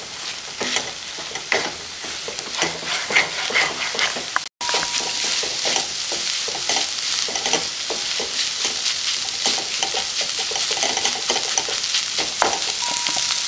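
Scrambled eggs with tomato and onion sizzling in a nonstick frying pan while a wooden spatula stirs and scrapes them, with many small clicks of the spatula against the pan.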